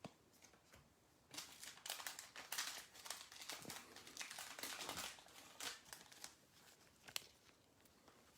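Foil wrapper of a trading-card pack crinkling and tearing as it is opened, a dense run of crackling for a few seconds after a second in, with a couple of sharp clicks of handling.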